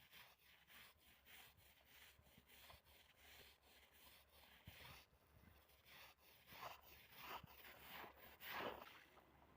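Faint, irregular wiping or rubbing strokes on a surface, the strongest near the end.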